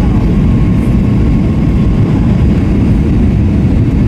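Steady low rumble of airliner cabin noise inside an Airbus A321-232, from its IAE V2500 engines and airflow, heard from a rear window seat.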